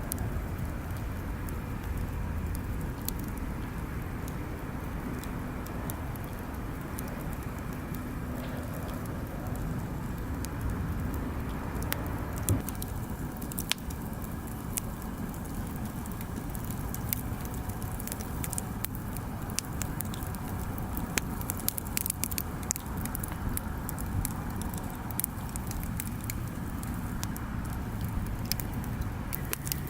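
Bonfire burning, with many sharp crackles and pops scattered irregularly, more frequent in the second half, over a steady low rumble.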